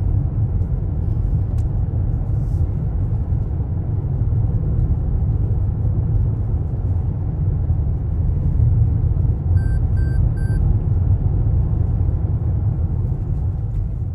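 Loud, steady low rumble with three short, evenly spaced electronic beeps a little under ten seconds in.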